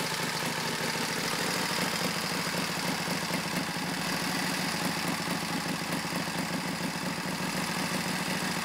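1931 Indian 101 Scout's flathead V-twin engine idling steadily with an even, fast pulse.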